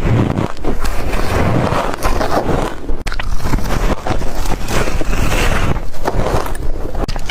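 Dry, frosty white ice being bitten and chewed close to the microphone: a dense, loud run of crunches and crackles, with brief pauses about three and four seconds in.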